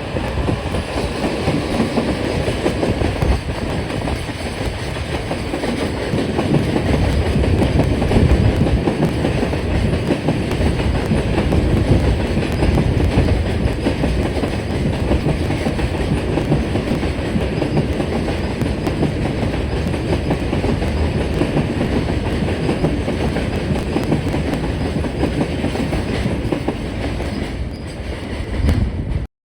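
Freight train hauled by a JR Freight EF210 electric locomotive passing, a long string of wagons rolling by with a steady clatter of wheels over the rails; the sound cuts off suddenly near the end.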